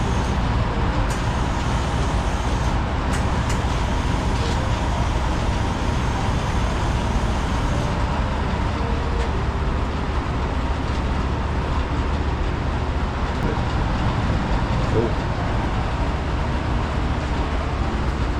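Steady loud hum and rush of powder-coating shop equipment, even and unchanging, with a faint steady tone above it.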